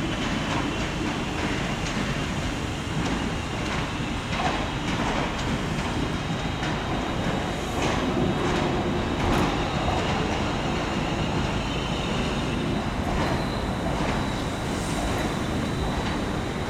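Class 350 Desiro electric multiple unit moving along the platform track, its wheels clicking over the rail joints under a steady running noise, with a faint high whine.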